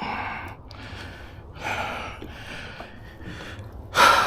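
A man breathing hard, with four audible breaths or gasps; the last, near the end, is the loudest.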